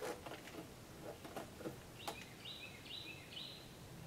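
A bird calls a short series of three or four high, even notes about halfway through, over faint outdoor background noise. A few soft clicks and taps come in the first two seconds.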